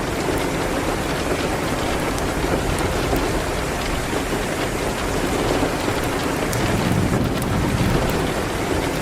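Steady heavy rain against a window, with the sparse sharp crackles of a wood fire scattered through it.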